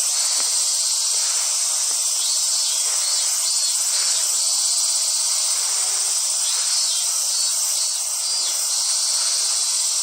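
A steady, loud chorus of cicadas, a high-pitched shrill drone that does not let up.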